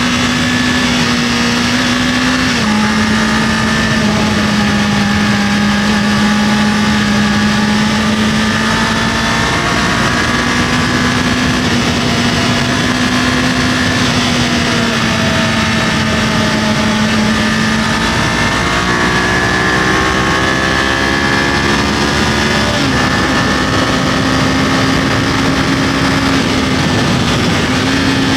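Kawasaki KLE500 motorcycle's parallel-twin engine running steadily at road speed, its pitch dropping a little about two seconds in and climbing again over a few seconds in the second half as the throttle opens. Steady wind and road noise throughout.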